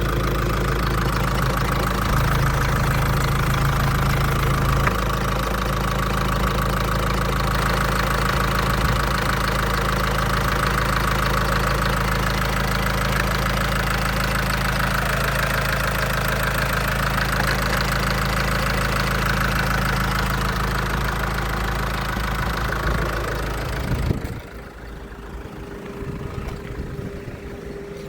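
SsangYong 2.0 XDi (D20DTF) four-cylinder turbodiesel running steadily at idle on an engine test, then switched off about 24 seconds in, leaving a faint steady hum.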